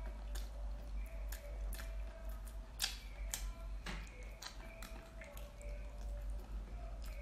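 Wet mouth sounds of biting and chewing a chili-coated octopus tentacle: irregular sharp smacks and clicks, over a steady low hum.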